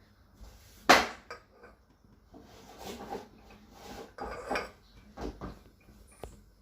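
A metal spoon clinking and scraping against metal as cooking oil is spooned into a pressure cooker: one sharp clink about a second in, then several softer taps and scrapes.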